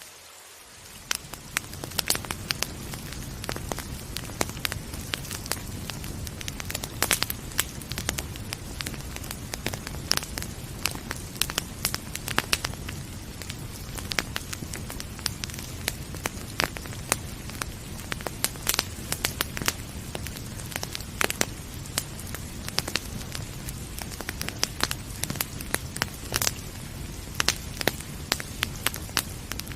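Wood fire crackling, with frequent sharp pops over a steady low rumble and hiss. The sound is quieter for about a second at the start, then comes back up.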